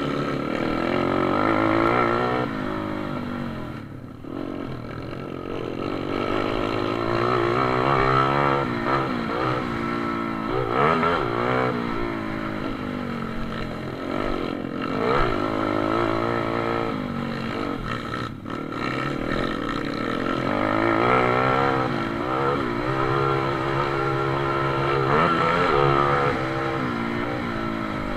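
Pit bikes racing, their engines revving up and falling back over and over, the pitch rising and dropping as they accelerate and ease off.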